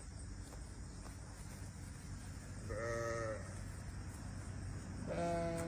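Two bleats from sheep or goats: a short one about three seconds in and a longer one starting near the end.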